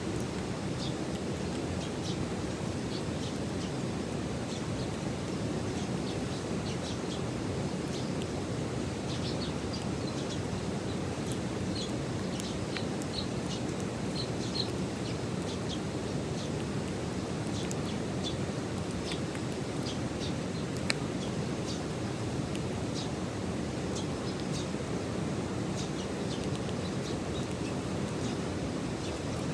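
Eurasian tree sparrows chirping in short, scattered calls over a steady low background rush of outdoor noise, with a single sharp click about two-thirds of the way through.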